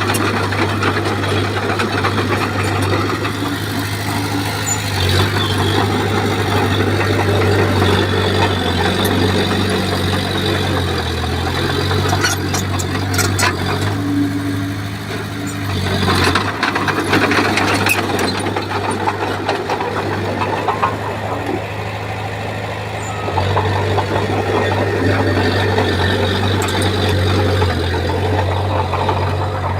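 Bulldozer's heavy diesel engine running, its pitch shifting up and down as the load changes, with a few short metallic clanks and rattles around the middle.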